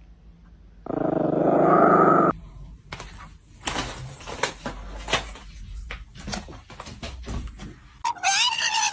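A pet animal's sounds: a loud, rough cry about a second in, a run of scattered knocks and clatter, then a wavering, high-pitched yowl near the end.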